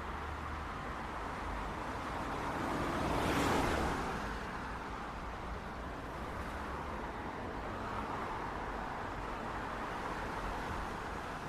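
City street traffic: a steady hum of passing road traffic, with one vehicle going by that is loudest about three and a half seconds in.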